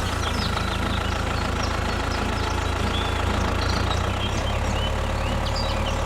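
Tractor engine running steadily at an even idle-like pace, with birds chirping in the background.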